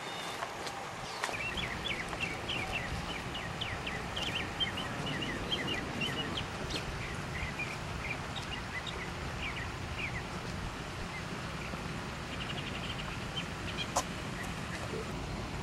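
Birds chirping in many short, high calls over a steady low outdoor background noise, with one sharp click near the end.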